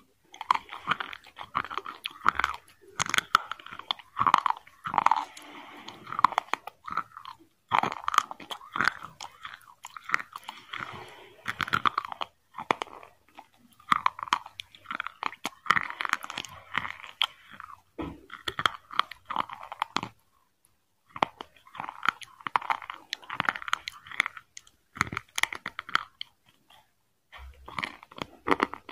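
Close-miked eating sounds: a person chewing a mouthful of chicken biryani with crunching and crackling. The chewing comes in bouts of a few seconds with short pauses between them.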